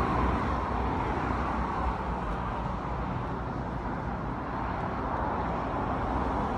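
Steady outdoor engine noise, a continuous low rumble with a hiss above it, from a distant vehicle.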